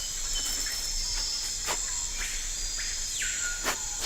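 Rainforest insects keep up a steady high-pitched drone, with a few calls that fall in pitch and some short clicks.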